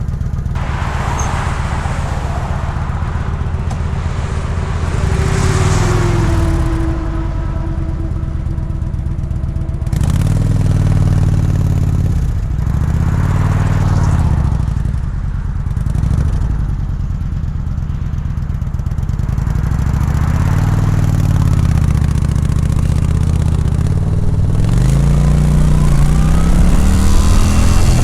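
2022 Kawasaki Vulcan 900 Classic LT's V-twin engine running under way, its pitch falling and rising several times as the rider shifts and changes speed, then climbing steadily near the end as it accelerates. Wind noise rushes over it throughout.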